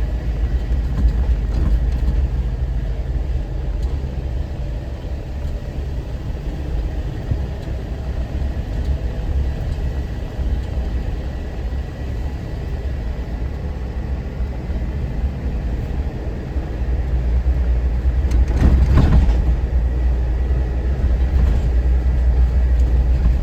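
Vehicle driving on a mountain trail: a steady low engine and road rumble that swells for a few seconds near the end, with a brief rougher patch of noise.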